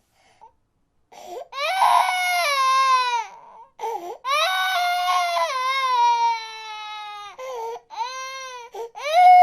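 Infant crying in drawn-out wails that slide down in pitch, with short gasping breaths between them; the crying starts about a second in.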